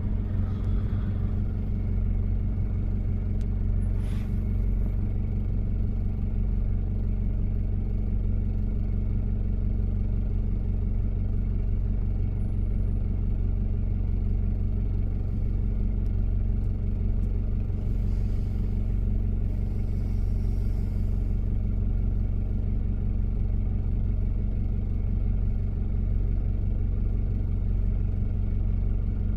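Diesel engine of a 1993 Toyota Prado running at a steady speed while driving, a low even drone that holds one pitch without revving. There is a brief click about four seconds in.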